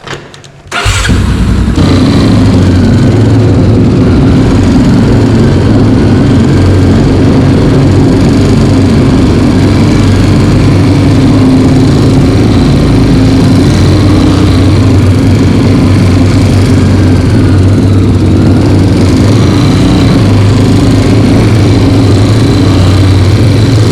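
Single-cylinder four-stroke dirt bike engine that cuts in abruptly about a second in and then runs loud and steady as the bike rides along the trail, close to the microphone.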